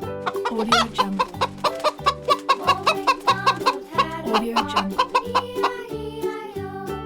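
Chickens clucking in a rapid run of short calls over background music with a steady beat.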